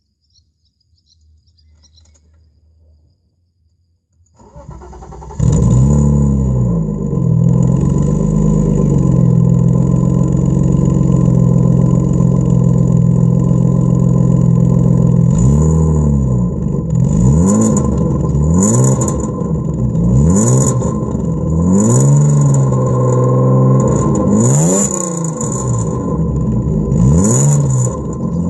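BMW E36 320i's M50B20 2.0-litre straight-six being started: about four seconds in it cranks for a second, catches and settles to idle. From about halfway on it is blipped in a series of quick revs, roughly one every one and a half to two seconds, with one longer rev near the end.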